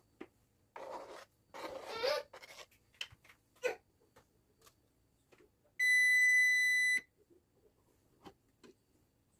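One long electronic beep, a single steady tone held for just over a second about six seconds in, preceded by soft rustling and a few light clicks of things being handled.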